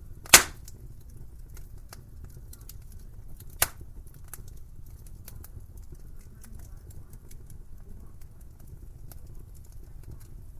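Fireplace fire crackling: a steady low rumble of the flames with many small crackles, and two sharp pops, a loud one near the start and a smaller one a few seconds later.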